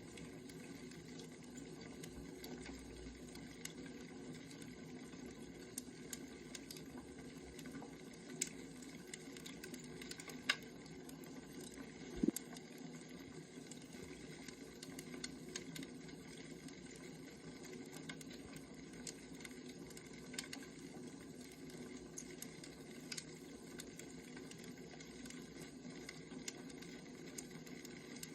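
Burning firewood crackling steadily, with scattered small pops and snaps, the loudest a sharp snap about twelve seconds in.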